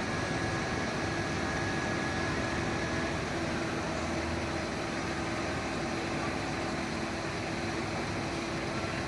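A vehicle engine idling steadily with a constant low hum; a faint high whine fades out about three seconds in.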